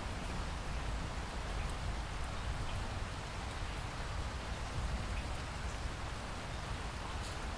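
Steady rain falling, a continuous hiss with scattered drop ticks over a low rumble.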